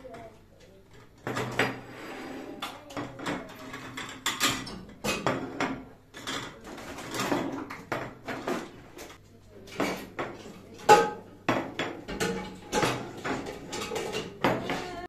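Kitchen clatter: dishes, pans and utensils being handled and set down, many quick knocks and clinks, a few of them ringing briefly.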